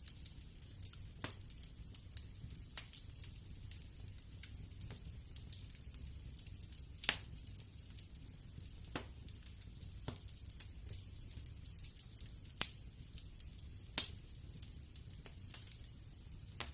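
Wood fire burning in a fireplace, crackling and popping: a low rumble under irregular sharp pops, the loudest about 7, 12.5 and 14 seconds in.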